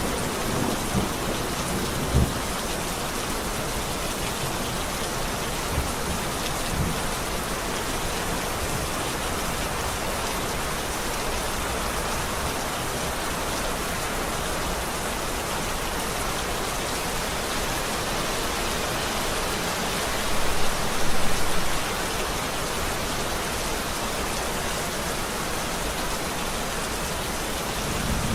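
Steady rain falling, with rolling thunder: a low rumble in the first couple of seconds and a louder peak about three-quarters of the way through.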